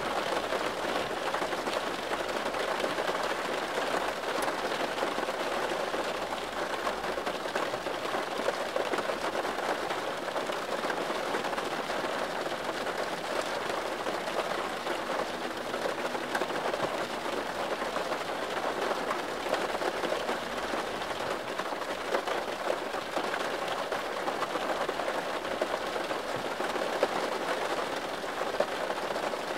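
Steady rain falling on a surface: a dense, even patter of many drops.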